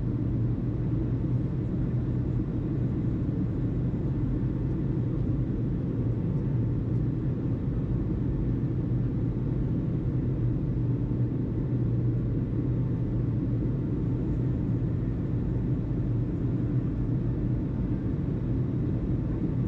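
Steady low rumble with a constant low hum, unchanging throughout.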